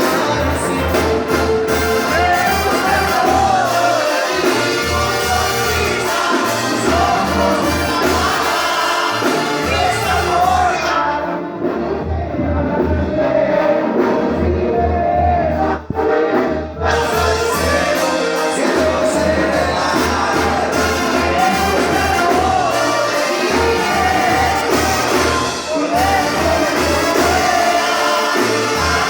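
Live music: a singer with a brass band, over a steady pulsing bass line.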